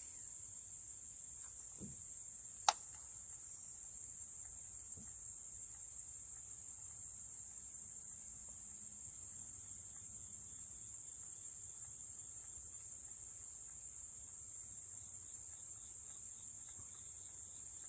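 A steady, high-pitched chorus of insects, with a single sharp click a little under three seconds in.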